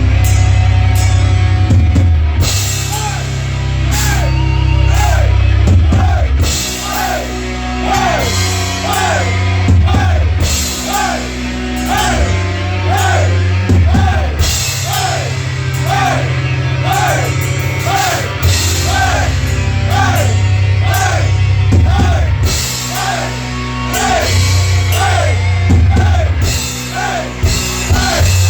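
A live heavy rock band playing loud, with drums and a heavy bass low end under a lead part that slides up and back down in pitch, repeated about every three-quarters of a second.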